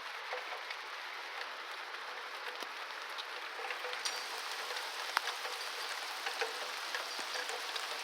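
Heavy rain falling steadily, with single drops striking sharply here and there; it grows a little heavier about halfway through.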